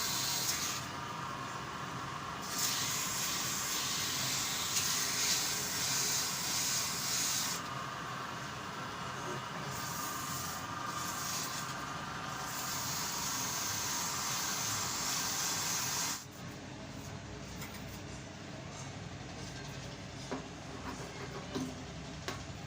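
Pedestal fan running on freshly replaced, still slightly tight motor bearings, being run so they bed in: a steady airy hiss of the spinning blades. About two-thirds of the way through the hiss drops sharply to a much quieter running sound with a few small clicks.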